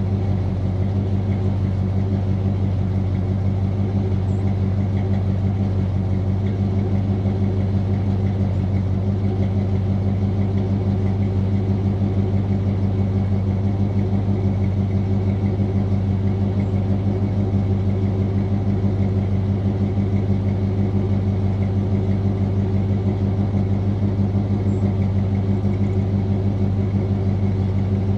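1981 GMC C10's 350 small-block Chevy V8 with a 750 Quadrajet, exhaling through long-tube headers and Thrush welded mufflers, idling steadily with an even exhaust pulse while it warms up after a cold start.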